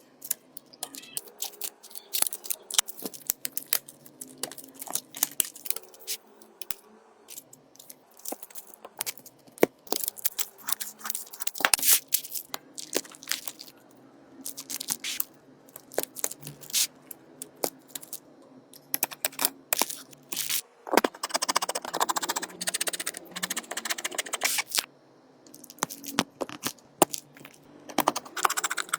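Irregular clicks, taps and light scrapes of small tools and parts being handled on a smartphone under repair. About two-thirds of the way through comes a few seconds of denser scraping, tearing noise.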